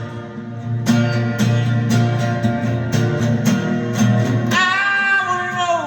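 Guitar strummed in a steady rhythm, about two strokes a second, between sung lines of a song. About four and a half seconds in, a male voice comes in on a long held note that falls away near the end.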